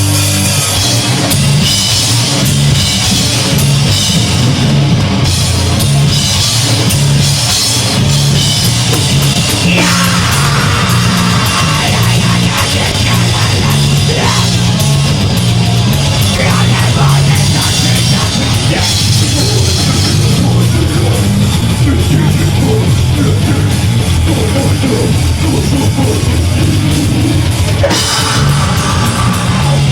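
A deathgrind band playing live at full volume: heavily distorted guitars and bass over fast, dense drumming, with no break.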